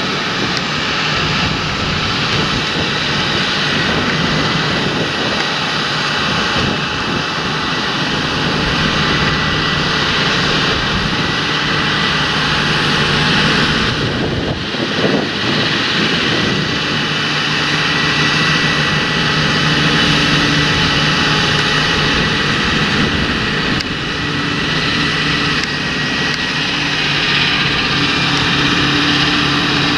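Large John Deere farm tractor engine running steadily under working load, a continuous drone with a high whine over it; the sound dips briefly about halfway through.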